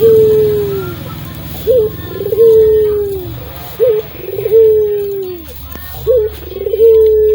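Puter (domestic ringneck dove) cooing over and over. Each call is a short clipped note followed by a long drawn-out coo that sags in pitch at its end, repeating about every two seconds.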